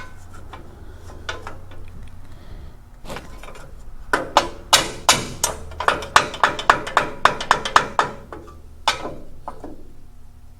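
A quick run of sharp metallic knocks and taps, about four a second for several seconds with a last one a second later, as the loose sheet-metal engine-bay pieces are handled and set against each other.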